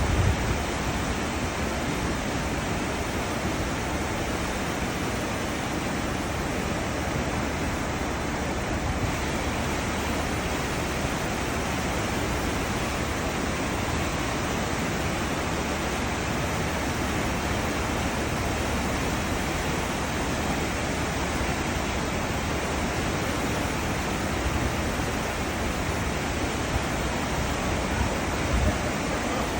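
Cruise ship's wake churning behind the ship: a steady, unbroken rush of water with a low rumble underneath.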